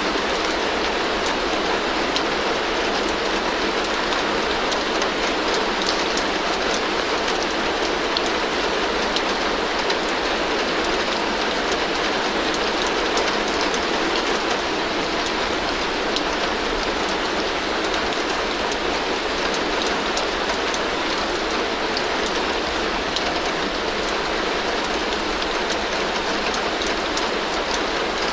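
Heavy rain falling steadily on a tin roof: a dense, even hiss of drops on the metal, with fine individual drop ticks and no changes in strength.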